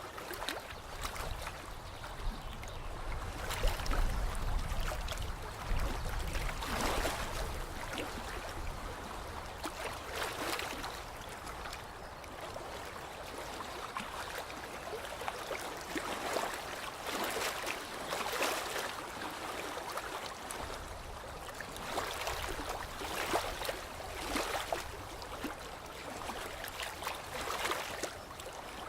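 Lake water lapping and trickling in irregular small surges every second or two. A low rumble sits under it for a few seconds near the start.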